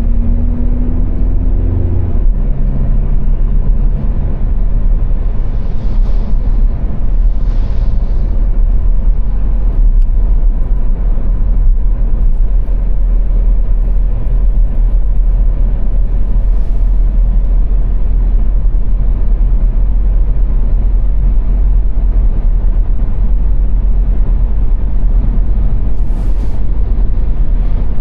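Car driving at motorway speed: a steady, loud low rumble of road and engine noise. A pitched engine note is heard in the first couple of seconds, and a few brief hissing swells come and go.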